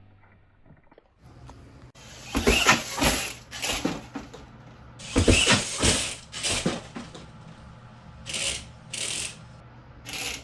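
Radio-controlled SMT10 monster truck with a Traxxas Velineon brushless system, its drivetrain ratcheting and grinding in bursts as the throttle is applied: two longer bursts, then several short ones near the end. The sign of a drivetrain fault that the driver traces to the rear axle.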